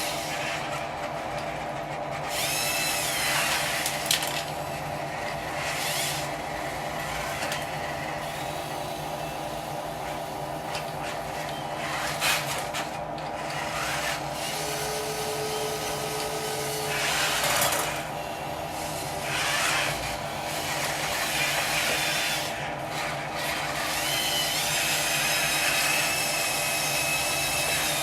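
Radio-controlled construction machine at work: a steady electric motor and pump whine with repeated spells of scraping and rasping as it works soil.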